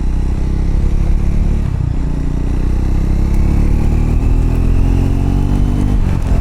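Triumph Scrambler's parallel-twin engine pulling under way, its pitch rising steadily from about two seconds in as it accelerates.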